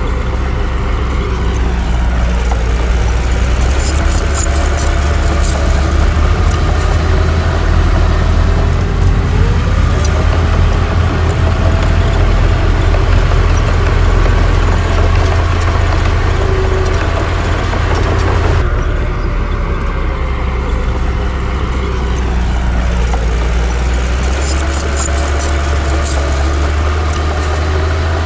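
Heavy diesel engine of a Komatsu D60 bulldozer running under varying load, its pitch rising and falling over a steady low rumble. Light metallic clinking comes in a few seconds in and again near the end, and the sound changes abruptly about two-thirds of the way through.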